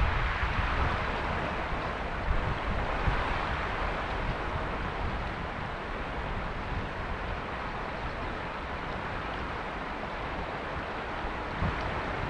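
Mountain river flowing steadily, an even rushing hiss of water. Low rumbles of wind on the microphone come at the start and again near the end.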